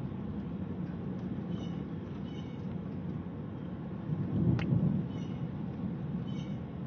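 Outdoor storm ambience: a steady low rumble that swells louder for about a second, four to five seconds in, with faint short high chirps repeating every second or so.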